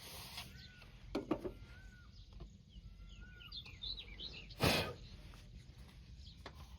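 Birds calling over a low background rumble, with repeated short hooked whistles and a cluster of quick chirps. There are a few knocks just after a second in and one brief loud noisy burst about two-thirds of the way through.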